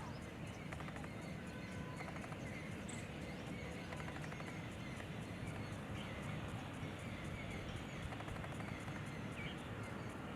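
Steady outdoor background noise with a low rumble, and a few faint, short bird chirps now and then.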